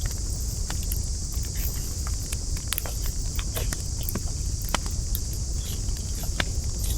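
Wood campfire burning, with irregular sharp crackles and pops over a steady low rumble and a constant high hiss.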